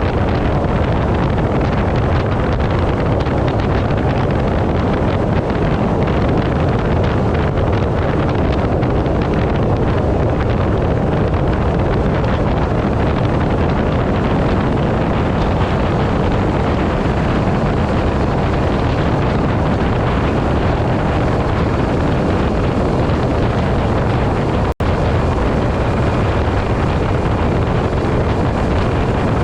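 Yamaha 225 outboard running steadily with the boat at speed, buried under heavy wind rush on the microphone and water noise. The sound cuts out for an instant about 25 seconds in.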